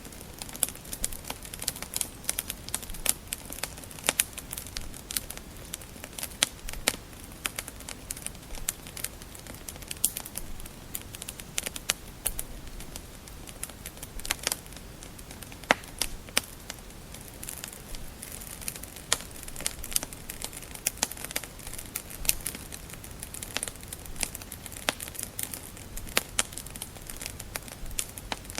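Wood fire crackling in a fireplace: a steady run of irregular sharp pops and snaps of varying loudness over a low hiss.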